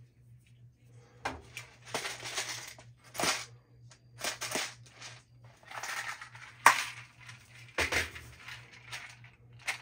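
Irregular crackling and clattering as a plastic case of wire connectors is handled and opened, small parts rattling inside, with a sharp click a little before seven seconds in.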